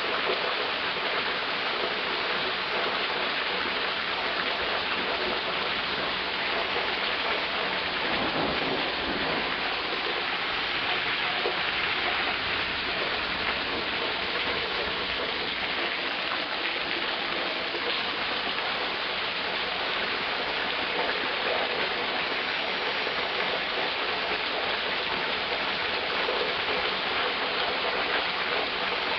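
Steady heavy rain falling on a street, an even hiss, with a low rumble swelling and fading about eight to ten seconds in.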